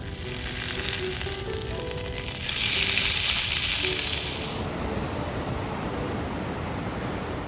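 Meat sizzling as it cooks, the sizzle swelling louder about two and a half seconds in and falling away after about five seconds.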